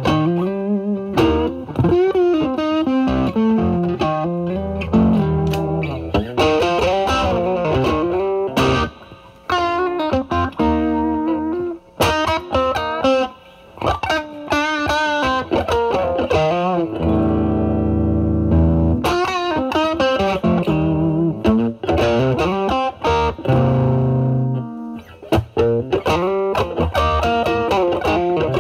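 Overdriven electric guitar: a Stratocaster through a Vertex Steel String Clean Drive MK1 overdrive pedal at maximum gain, into a Valvestate amp's drive channel. It plays bluesy lead lines with string bends and vibrato, and lets one chord ring for about two seconds past the middle.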